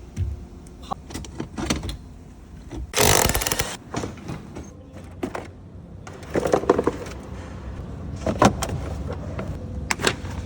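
Scattered clicks, knocks and scrapes of metal and plastic car parts being handled and worked loose by hand during disassembly, with a short rushing noise about three seconds in.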